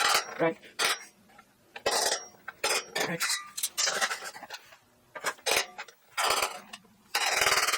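Metal tools and steel parts clinking, clattering and scraping in irregular knocks, with a longer dense rattle near the end, as steel gussets and fasteners are fitted to a lathe stand.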